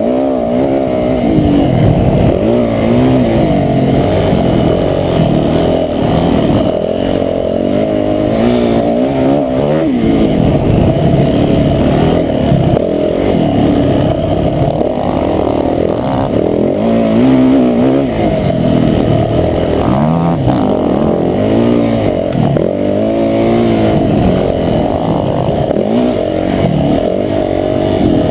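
Dirt bike engine on a motocross track, revving up and dropping back over and over as the rider works through the gears and corners. The sound is muffled, with little above the low engine notes.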